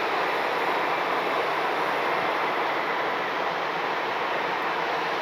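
Steady roar of jet aircraft engines on the airfield, an even rush with no change in pitch.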